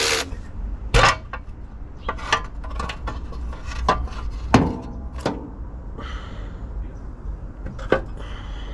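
A series of separate knocks and clunks, about six in all, the loudest about halfway through, as the valve cover of the engine is worked loose and lifted off.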